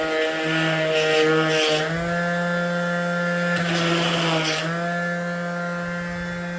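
Electric palm sander running with a steady whine while sanding the door's freshly cut edge, with a scratchy rasp of sandpaper on wood that is strongest about four seconds in. Its pitch dips slightly about two seconds in and again near five seconds as it is pressed to the work.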